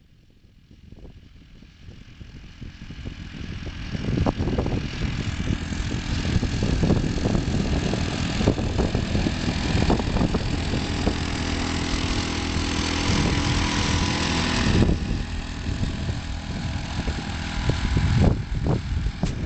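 Engine of a homemade one-wheel tractor running steadily, building up over the first few seconds. It grows harsher and louder through the middle, then eases back.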